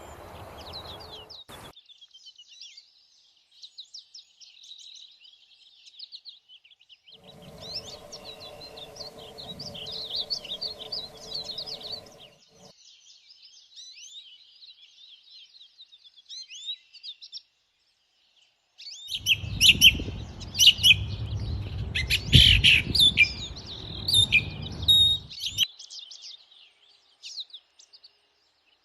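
Several small songbirds chirping and trilling in a rapid, overlapping morning chorus. A faint steady hum sits under the birds for a few seconds about a quarter of the way in. About two-thirds through, a louder stretch of low rumbling noise comes in under the birds for about six seconds.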